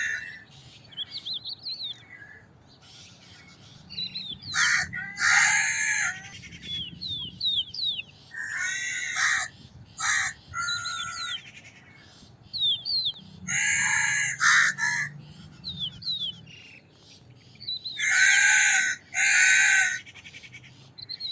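Crows cawing, harsh calls coming in pairs about every four seconds, with small birds chirping in between.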